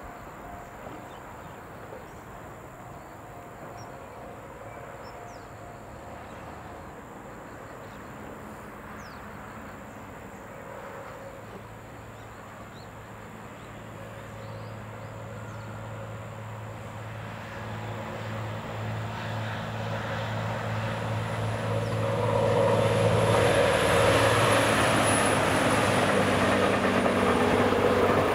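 A two-car JR Kyushu YC-1 series hybrid railcar approaching and passing. The low drone of its diesel generator engine grows over the first half, then wheel and rail noise swells to the loudest point in the last few seconds, with a thin high whine near the end.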